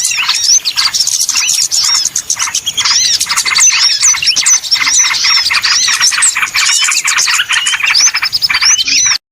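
Dense chattering of many small birds calling at once: rapid chirps and quick arching notes repeated over and over, a noisy lure call for trapping small birds. It cuts off abruptly near the end.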